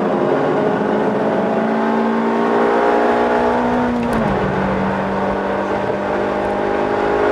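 Suzuki Swift's engine pulling hard, its pitch climbing steadily, then dropping abruptly about four seconds in at a gear change and running on at a steady pitch.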